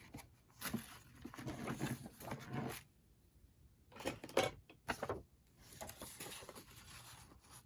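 Paper and craft materials being handled and shifted on a work surface while a hinge piece is measured: irregular soft rustling and scraping, with a few sharper rustles about four to five seconds in.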